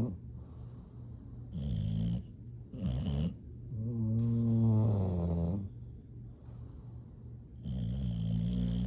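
English bulldog snoring in its sleep: four separate low snores, the longest about four seconds in and lasting about a second and a half, with short quiet breaths between.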